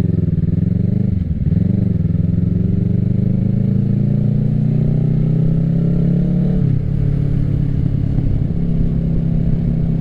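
2024 Kawasaki Ninja 650's parallel-twin engine through an M4 full exhaust system, accelerating away from a standstill. The engine note climbs, dips briefly about a second in, climbs again, then drops sharply near seven seconds as it shifts up and holds steady.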